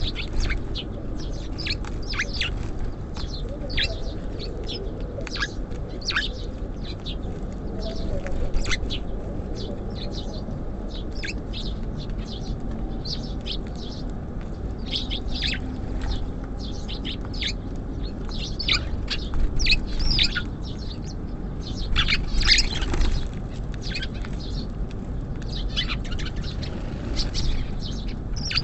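Small songbirds at a feeder chirping repeatedly: many short, high calls throughout, with a busier cluster a little past the middle, over a steady low background rumble.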